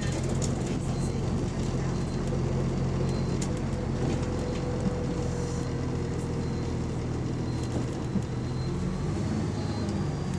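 Bus engine running steadily, the bus having an exhaust leak.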